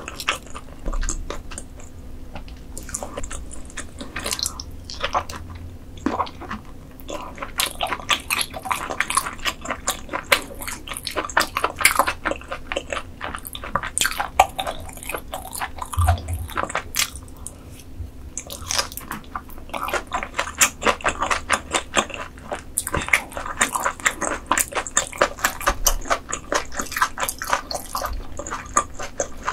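Close-miked eating: chewing and biting food, with a dense run of small wet, crunchy clicks.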